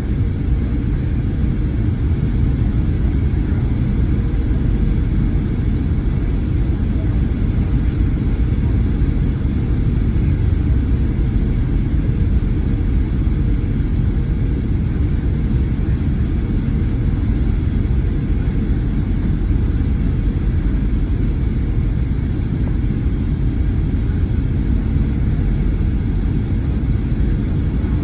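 Cabin noise inside a Boeing 737-900ER: a steady, loud low rumble of engine and air noise, with no sudden changes.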